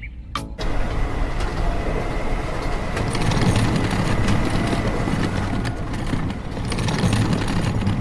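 A small motorized machine running steadily, a dense mechanical rumble that starts abruptly about half a second in, just after a couple of sharp clicks.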